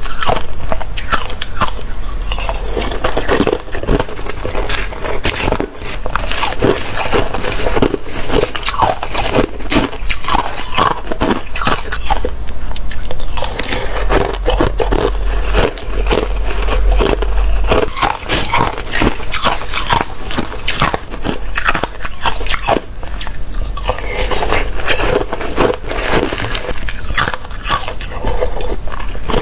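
Close-miked biting and chewing of watery, slushy ice: continuous wet crunching and crackling, many small crunches a second.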